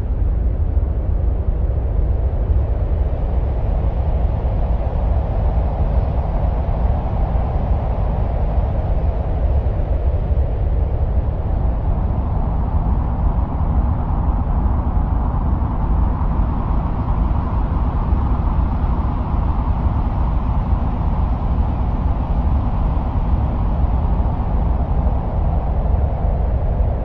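A steady, deep wind-like rumble presented as the sound of Mars. Above it, a higher hiss slowly rises in pitch and sinks again, like a long gust.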